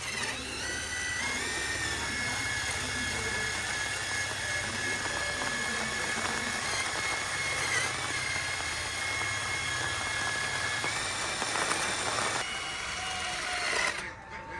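Electric power tool spinning up and running steadily with a high whine and hiss, shutting off about twelve seconds in.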